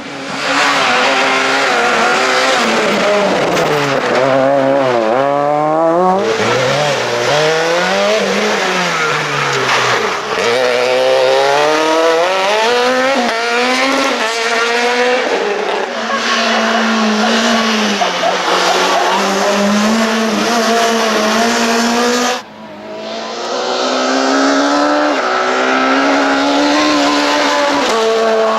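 Super 2000 rally car engine, a two-litre four-cylinder without turbo, driven hard. Its pitch climbs and drops again and again through upshifts and quick downshifts. About two-thirds of the way in the sound cuts abruptly to another run of the same kind.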